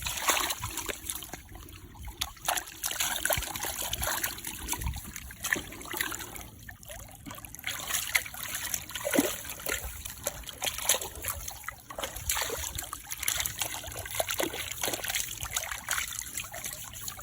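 Irregular splashing and trickling water as mud is washed off feet in a small freshwater channel.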